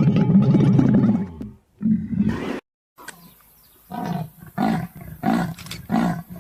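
A big cat roaring: a long, loud, deep call at first, a shorter one about two seconds in, then after a short break a run of about four short grunting calls.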